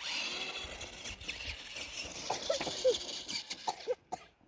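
Electric motor and gears of a toy Grave Digger monster truck whirring steadily, with a few short high squeaks over it in the second half; the whir stops about four seconds in.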